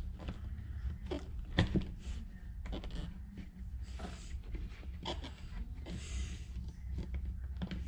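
Scattered light clicks and knocks of small parts being handled and set down, the sharpest about a second and a half in, over a steady low hum.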